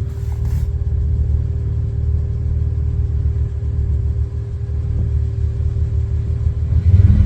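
Jeep engine running at low revs, a steady low rumble; the engine picks up and gets louder near the end.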